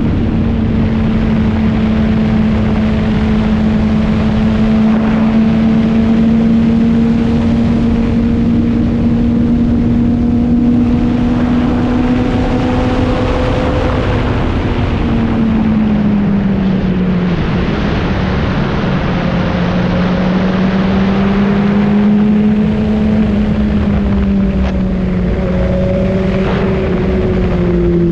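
Motorcycle engine running at a steady cruise under wind rush. Its pitch holds steady, drops about halfway through as the engine speed falls, then rises and falls a little toward the end.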